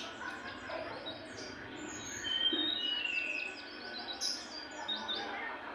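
A songbird known in Bali as the jongkangan singing actively: dense runs of short, high chirps that each sweep downward, mixed with a few clear whistled notes.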